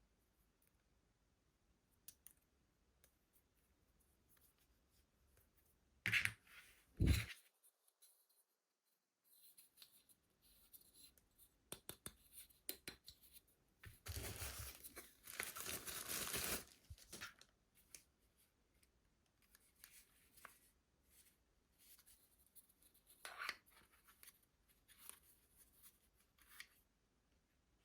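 Packaging being opened by hand: two loud sharp knocks about six seconds in, a stretch of about three seconds of cutting or tearing noise about halfway, and scattered light clicks and rustles.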